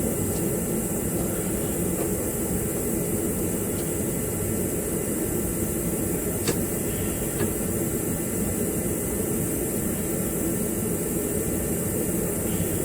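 A steady rushing mechanical drone, unchanging throughout, with two faint clicks just past the middle.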